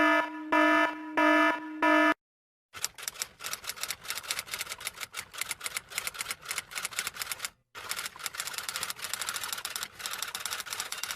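An electronic alarm beeping four times, then a typewriter's keys clattering rapidly for several seconds, with one short pause partway through.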